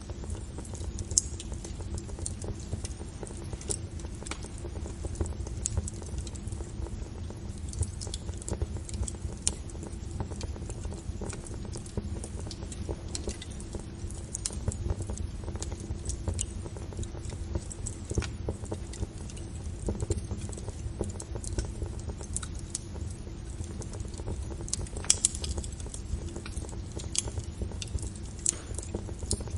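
Fire crackling: irregular sharp pops and snaps over a low steady rumble of the flames, with a few louder pops close together a little before the end.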